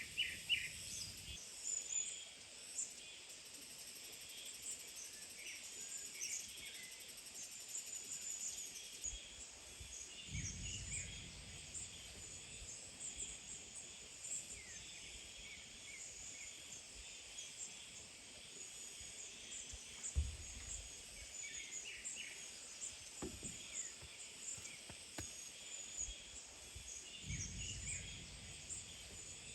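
Forest ambience: birds chirping here and there over a steady hum of insects, with three short low rumbles.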